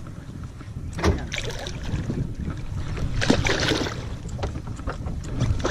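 Steady low rumble of wind and water around a small fishing boat, broken by two sudden noisy bursts, about a second in and about three seconds in, while a hooked fish is being brought in.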